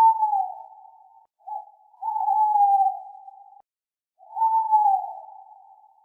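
Owl hooting: a series of clear, single-pitched hoots about a second or more long, each starting a little higher and sliding slightly down, with a short call in between and a pause before the last.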